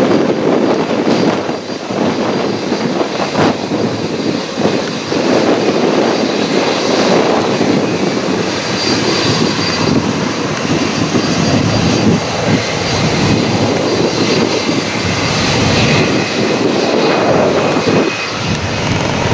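A jet airliner's engines heard close by: a loud, steady rush of noise, with a faint high whine above it in the second half.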